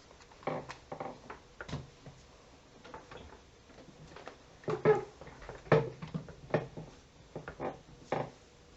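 A series of irregular short knocks and clicks, a dozen or so spread over several seconds, the loudest about halfway through.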